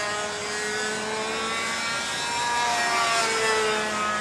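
Motor of a radio-controlled model airplane in flight, a steady buzzing whose pitch falls, rises again about halfway through, and falls once more as the plane passes by.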